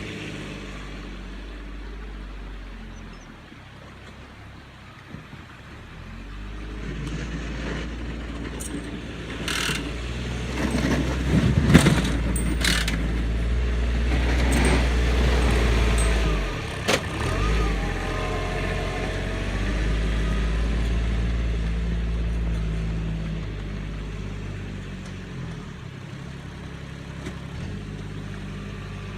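Kubota tractor engine running steadily while plowing snow. It grows louder through the middle, with several sharp knocks and clatter, and a brief wavering whine follows.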